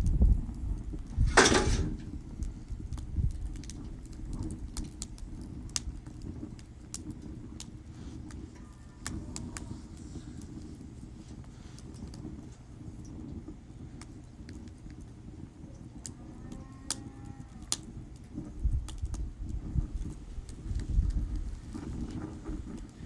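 Wood fire burning in a bucket fire pit, crackling with irregular sharp pops over a low rumble. One loud pop comes about a second and a half in.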